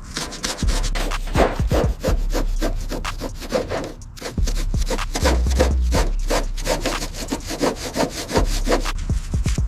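Rapid back-and-forth rubbing strokes on a hard surface, several a second, with a short pause about four seconds in.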